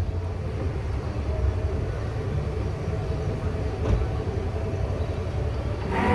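Flatbed tow truck's engine idling with a steady low hum and a single knock about four seconds in. Near the end a louder, higher note comes in.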